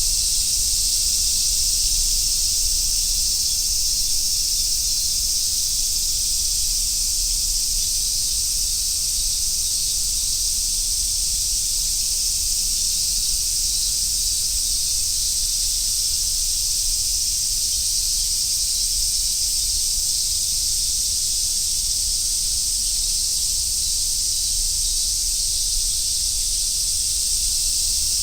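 A dense chorus of cicadas singing, a steady, unbroken high-pitched buzz, with a low rumble underneath.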